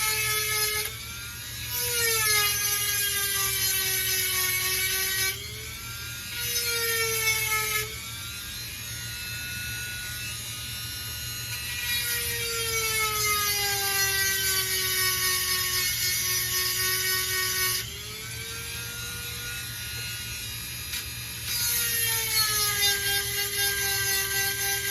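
Dremel rotary tool with a 7/32 round grinding stone sharpening the cutters of a chainsaw chain. The motor whines steadily throughout, its pitch sagging each time the stone bears on a tooth and recovering between, with several stretches of gritty grinding a few seconds long.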